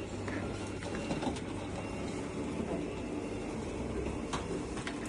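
A roller shutter running down to close: a steady mechanical rumble with a low hum and a few light clicks from the moving slats, stopping right at the end as the shutter shuts.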